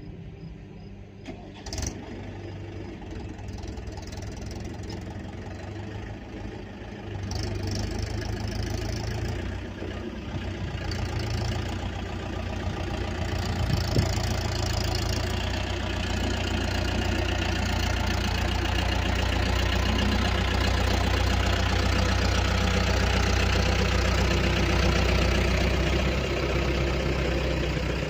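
Tractor engine running steadily, growing louder about a quarter of the way in and again around halfway. A sharp knock sounds near the start and another midway.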